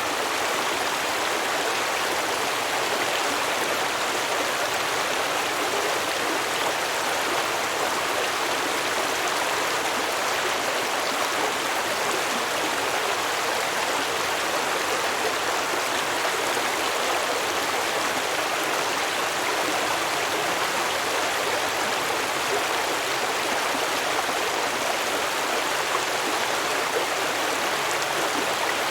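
A stream of water running steadily over rocks, a continuous rushing and babbling.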